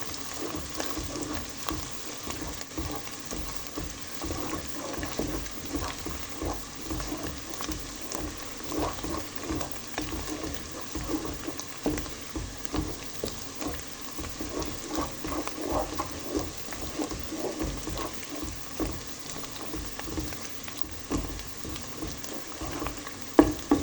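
Onion, garlic, ginger and green chilli paste sizzling in hot oil in a pot as it is browned, with frequent short scrapes and knocks as it is stirred.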